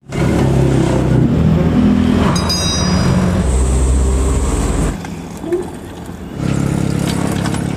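Heavy truck's diesel engine running and revving, its pitch shifting up and down, easing off briefly about five seconds in before picking up again.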